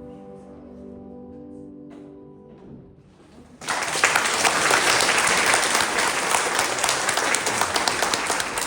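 The final chord of a classical piece dies away, then audience applause breaks out suddenly about three and a half seconds in and continues.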